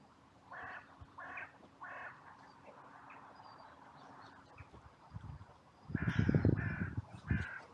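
Carrion crows cawing: three harsh caws in the first two seconds, then three louder caws near the end. A loud low rumble on the microphone comes in with the later caws.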